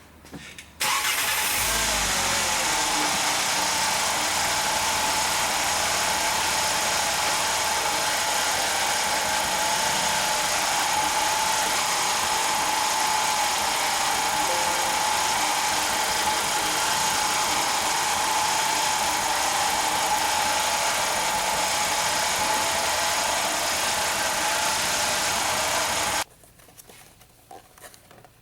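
2007 VW Jetta's 2.5-litre five-cylinder engine starting about a second in, idling steadily, then shut off abruptly near the end.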